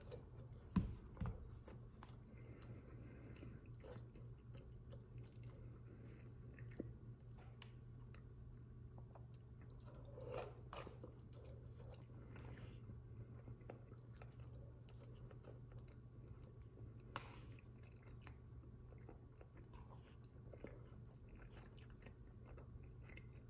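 Faint close-up chewing of a soft chicken enchilada bake with a thick corn tortilla, over a steady low hum. Two sharp clicks about a second in, from the metal fork against the plastic bowl.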